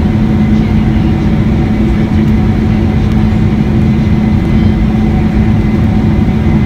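Boeing 747-400 jet engines running steadily: a loud, even drone with a constant low hum.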